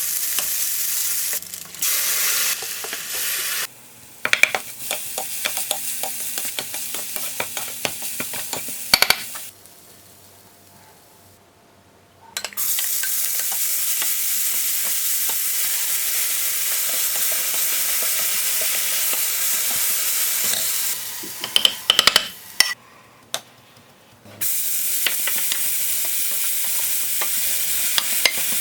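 Food sizzling in a frying pan while being stirred, with scattered light clicks of the utensil against the pan. The sizzle drops away twice, for a few seconds a third of the way in and again near the end.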